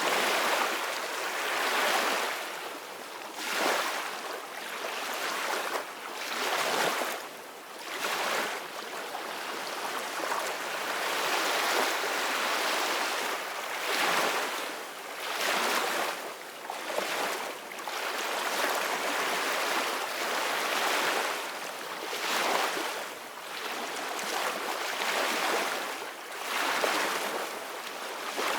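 Sea waves washing and breaking in a steady, continuous surge that swells and falls back every couple of seconds.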